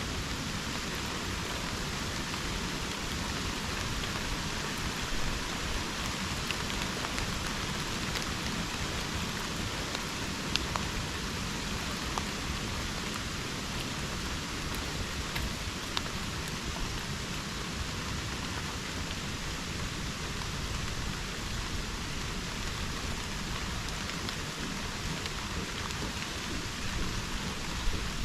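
Steady rain falling in a subtropical rainforest, with a few louder single drops hitting close by.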